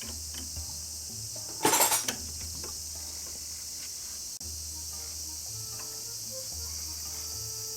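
A short clatter of metal clinking about two seconds in, with a few fainter ticks, over a steady high-pitched insect chirring.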